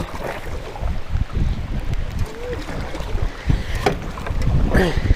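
Wind buffeting the microphone over paddle strokes in an aluminum jon boat, with a couple of sharp knocks about four and five seconds in.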